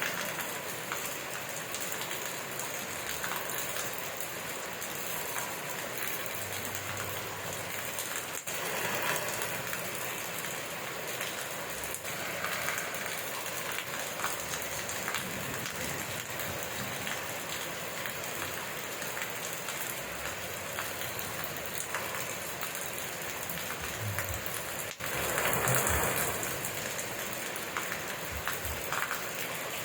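Steady rain falling and pattering on surfaces, with a short louder swell a few seconds before the end.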